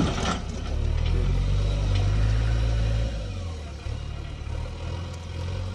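Heavy diesel engine running, rising in level about a second in and easing back about three seconds in, with a brief clatter at the very start.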